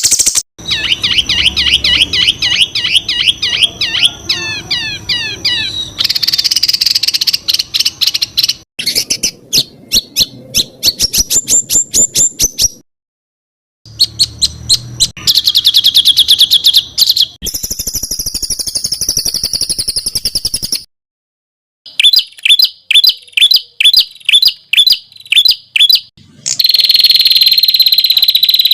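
Songbird song for masteran training: loud, high-pitched runs of rapid, sharp repeated notes and fast trills. The runs are spliced together, with abrupt cuts and two short silences, one near the middle and one about two-thirds of the way through.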